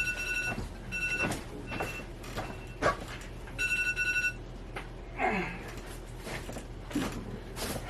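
Electronic kitchen timer beeping in several separate beeps, the last and longest about three and a half seconds in, then stopping as it is switched off. Scattered knocks and clatter of handling run through.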